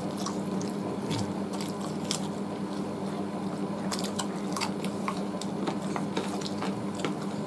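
Two people biting and chewing roast chicken off the bone with their hands, with scattered wet mouth clicks over a steady low hum.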